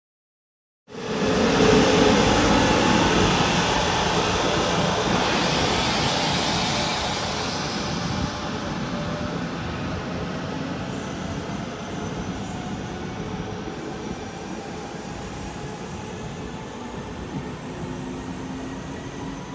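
Taiwan Railways train running on the track, cutting in suddenly about a second in at its loudest, then slowly fading, with thin high squealing tones from the wheels and rails.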